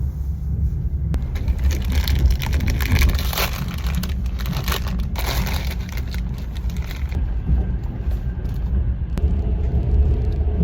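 Train running along the track: a steady low rumble with a few sharp clicks, and a hiss that comes in about two seconds in and fades by about seven seconds.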